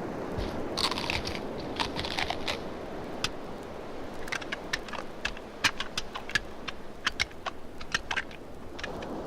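Staged sound effect of a giant crab clawing and crushing: irregular sharp cracks and crunching clicks, thickest in the second half, over a steady rumbling noise.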